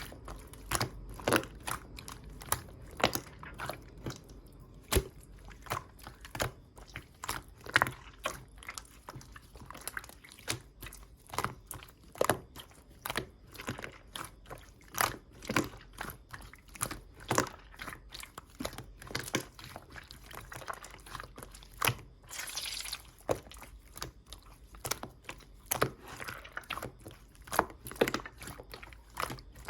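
Clear slime being squeezed and pressed by hand, giving irregular wet clicks and pops, roughly one or two a second.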